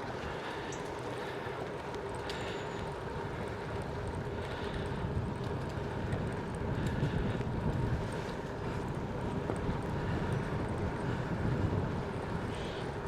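Wind buffeting the microphone of a rider on a moving road bicycle, with tyre and road noise underneath; a gusty low rumble that swells and fades.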